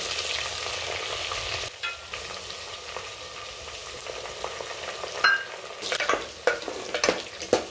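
Sliced onions, green chillies and mint leaves sizzling in hot oil in a pan. The sizzle drops about two seconds in, and from about five seconds on a spatula stirs the mix, clicking and scraping against the pan.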